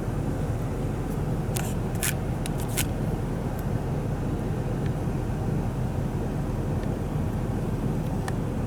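Steady low rumble of a car driving, with a few faint clicks between about one and a half and three seconds in and one more near the end.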